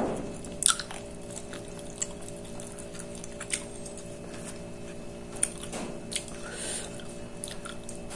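A person chewing food with wet mouth clicks and smacks, a couple of sharper clicks near the start, over a steady low background hum.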